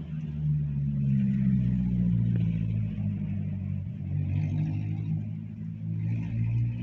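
A motor vehicle's engine running close by on the road, its pitch rising and falling, over a hiss of heavy rain.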